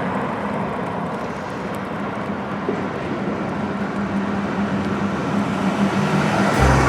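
Steady vehicle noise: a broad rushing sound with a constant low hum running under it.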